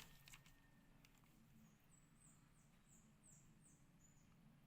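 Near silence: room tone, with a faint run of about seven short, high chirps in the middle, each falling in pitch.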